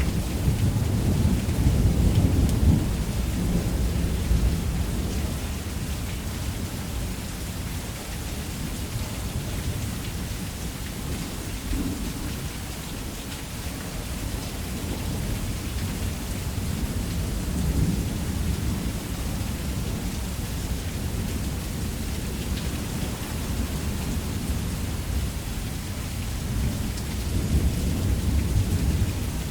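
Heavy rain falling steadily on a roof, with low rolling thunder. A long rumble dies away over the first few seconds, and softer rumbles swell up again around the middle and near the end.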